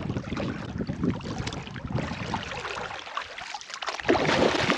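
Water splashing and lapping around a kayak, with wind on the microphone; louder for the last second.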